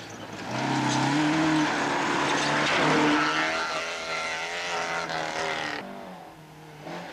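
Rally car engine accelerating hard, its pitch stepping up through the gears. It grows loud about half a second in and drops away about six seconds in, before another engine rises near the end.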